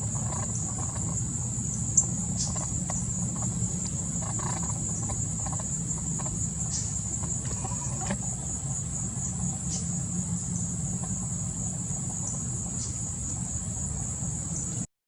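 Steady high-pitched insect chorus over a low steady rumble, with a sharp click about two seconds in; the sound cuts off suddenly just before the end.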